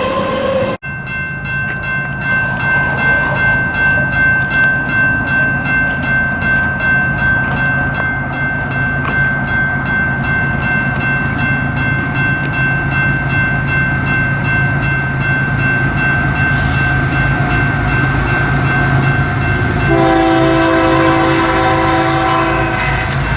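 BNSF freight train rolling past with diesel locomotives rumbling and a steady high wheel squeal. About 20 seconds in, a locomotive's multi-chime air horn sounds a held chord, breaks off, and sounds again near the end.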